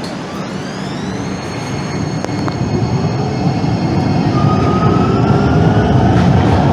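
Calgary CTrain light-rail car pulling away. Its electric traction motors whine, rising in pitch over the first second or so and then holding, while the rumble of the wheels on the rails grows steadily louder.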